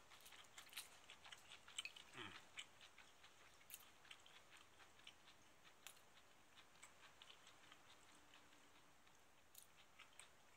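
A person chewing tempura with the mouth close to the microphone: faint, irregular small crunches and mouth clicks, busier in the first few seconds.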